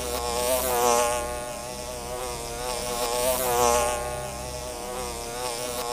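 A swarm of wild honeybees buzzing around their hive, a dense droning hum that swells and eases.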